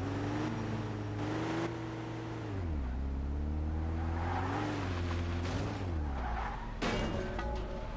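A car engine running, its pitch dropping, rising, then dropping again as it revs down and up, with a sharp short noise about seven seconds in.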